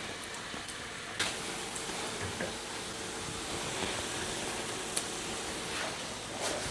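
Bread frying in a hot frying pan, sizzling steadily, with a small click about a second in.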